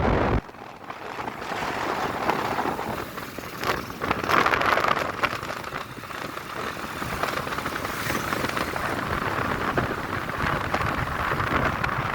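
Steady road and traffic noise from a motorbike ride, a hiss with passing vehicle sounds. The heavy wind rush on the microphone cuts out about half a second in.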